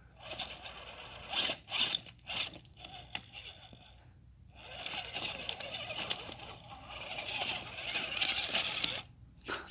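Axial SCX10 II RC crawler driving: its electric motor and geared drivetrain whirring, with scraping as it crawls over the ground. It pauses briefly about four seconds in, then carries on.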